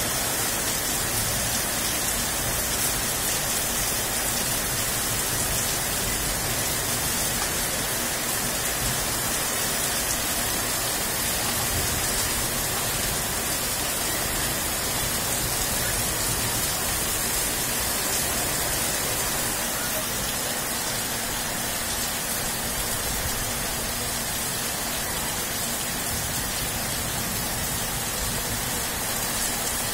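Heavy rain pouring steadily: a dense, even hiss that neither builds nor eases.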